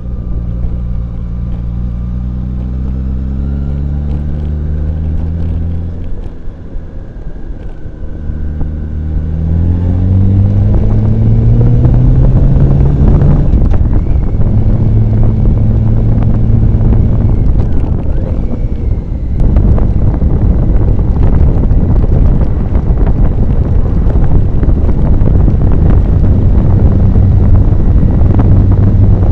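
Motorcycle engine running on the road, with wind rushing over the microphone. The engine eases off about six seconds in, then its pitch climbs as it accelerates, with short breaks for gear changes. The wind noise grows louder as speed builds.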